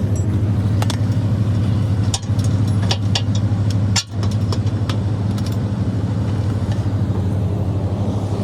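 Reefer trailer's refrigeration unit running with a steady low hum. Scattered metallic clicks and clanks come over it as the trailer's rear swing doors and their latches are closed.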